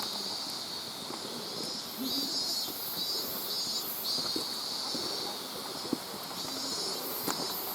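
Mountain stream rushing, with insects, likely cicadas, buzzing high in a pulsing rhythm a few times a second over it. Scattered light clicks from footsteps on the wet trail.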